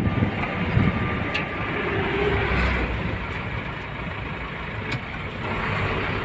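Steady road and engine noise of a moving vehicle heard from inside, with a few light clicks.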